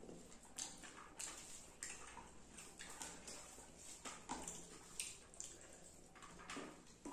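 Wet, close-up chewing and lip-smacking of someone eating rice and fish curry, an irregular run of soft smacks and clicks a few times a second.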